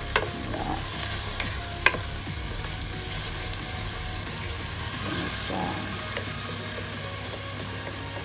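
Diced chicken breast and tomato sizzling in a pot, stirred with a wooden spoon, with two sharp knocks of the spoon against the pot about a second and a half apart near the start.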